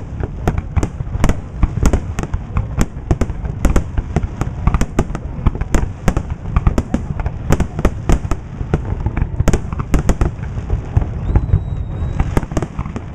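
Aerial fireworks display: a rapid, continuous barrage of shell bursts, several sharp bangs a second, over a steady low rumble.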